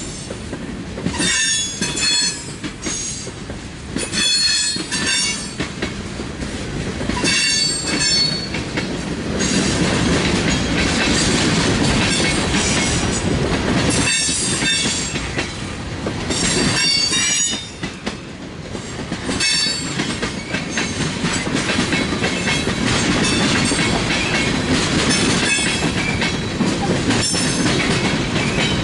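Freight train cars rolling past in a steady rumble, with high-pitched wheel squeals that come and go about ten times.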